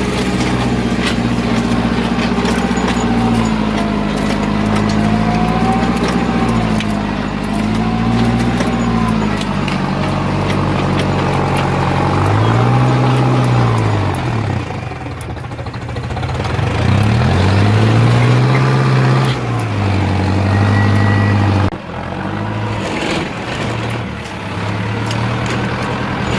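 Tractor diesel engine running, its speed swinging up and down in waves, dipping sharply twice about halfway through, and falling off suddenly near the end.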